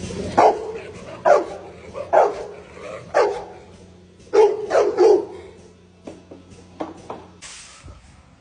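Dog barking in short, sharp barks that drop in pitch: about one a second at first, then three quick ones in a row about halfway through, followed by a few fainter ones.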